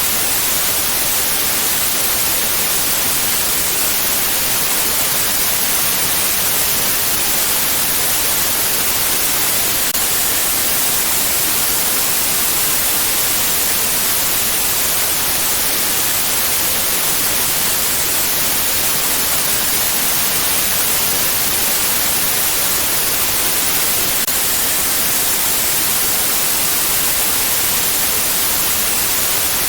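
Steady electronic white noise: an even, unbroken hiss, strongest in the high end, with no change in level.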